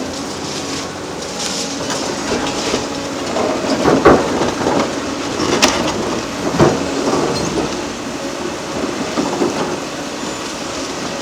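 Hydraulic demolition excavators breaking up a concrete bridge: a steady rumble of crunching concrete and machinery, with several sharp knocks of concrete breaking or falling, the loudest about four and six and a half seconds in.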